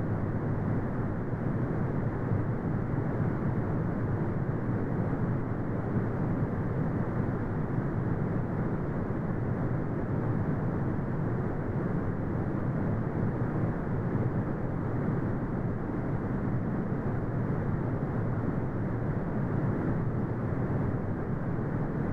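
Steady brown noise: a deep, even rumbling hiss with most of its energy low down and nothing above the upper mids, unchanging throughout.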